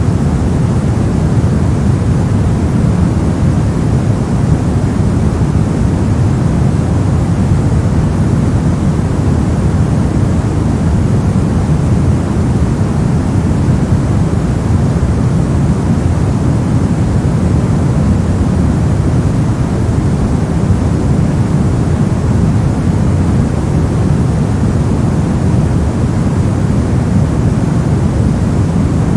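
Steady, unchanging synthetic noise played as a sleep and focus backdrop: an even rush with most of its weight low down, a deep hiss without any rhythm or swell.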